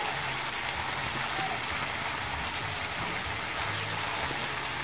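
Sliced upo (bottle gourd) with sardines and garlic sizzling in a frying pan over a strong wood fire, a steady hiss with no breaks.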